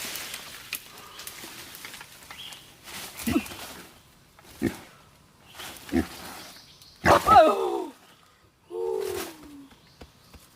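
Wild boar calling: a string of short grunts, then a louder squeal about seven seconds in and a falling call after it.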